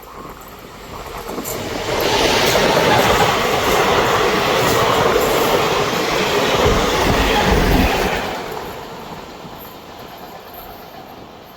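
A train passing close by: the rattle and rumble of its wheels on the rails swells about two seconds in, stays loud for about six seconds, then fades away.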